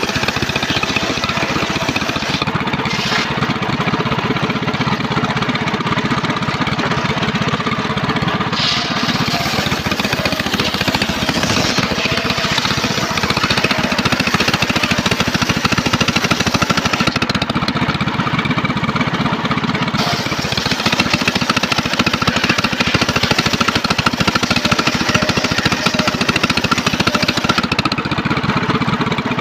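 Engine-driven homemade circular sawmill running steadily, its blade sawing trembesi timber.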